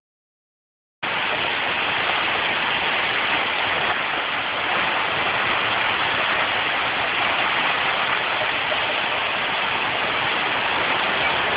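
Heavy rain and gusty wind in a storm squall, a steady rushing downpour that cuts in about a second in.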